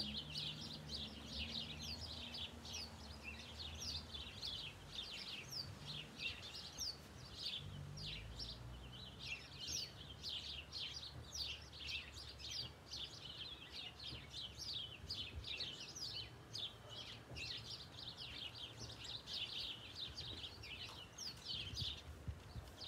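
Small birds chirping continuously: a dense, unbroken run of short, high chirps over a faint low rumble.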